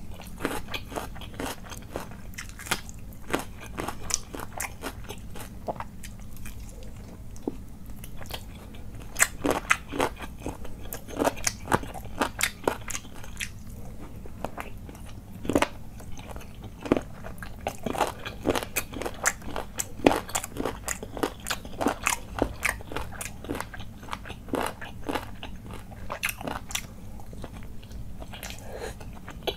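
A person biting into and chewing spicy chicken leg curry with rice, eaten by hand close to the microphone: a dense, irregular run of crunchy mouth clicks.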